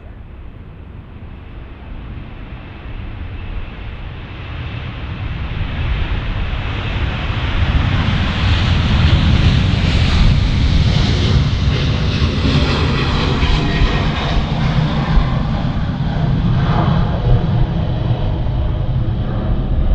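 Jet aircraft engines passing close by. The noise builds steadily, is loudest with a hissing whine about halfway through, then settles into a heavy deep rumble.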